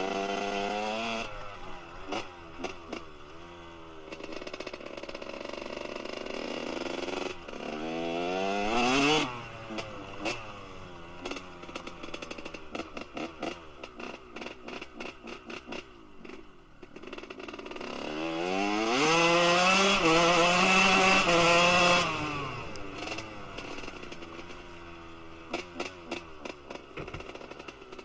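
Kawasaki KX125's single-cylinder two-stroke engine with a Pro Circuit R-304 shorty silencer revving up sharply several times. It is held at high revs for a few seconds past the middle, which is the loudest part. Between revs the pitch drops away with a rapid crackling as the throttle closes.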